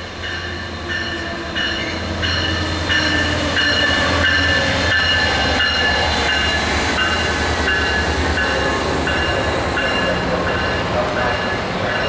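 Diesel-hauled train approaching and growing louder, with a low engine rumble. High ringing tones repeat about twice a second over it.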